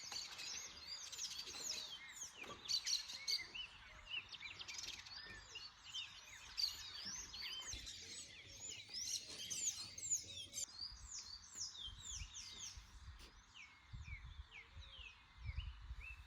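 Many small birds chirping together in a dense chorus of quick rising and falling calls, busiest for the first ten seconds or so and thinning out after that, over a faint steady hiss.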